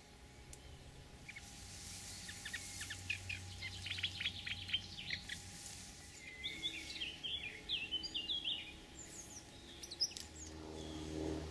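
Small songbird singing: a fast run of sharp repeated notes, then a phrase of varied chirps and short whistles.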